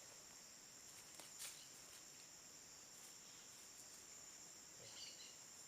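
Steady, high-pitched chorus of insects chirring in the forest, with a faint click a little over a second in.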